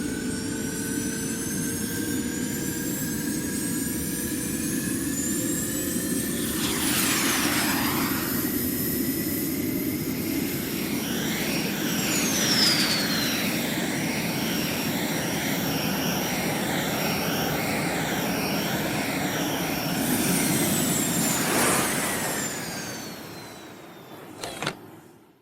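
Sci-fi jet pack or rocket thruster sound effect: a steady rushing rumble with thin whistling tones sliding in pitch over it, a sharp pitch sweep about seven seconds in and a warbling whine through the middle, then it fades out near the end.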